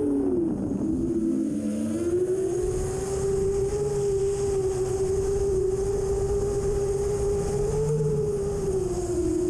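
Motors and propellers of an iFlight XL7 7-inch 6S FPV quadcopter in flight, making a steady pitched whine. In the first two seconds the tone dips and splits into several pitches as throttle changes, then holds steady. Low wind rumble sits underneath.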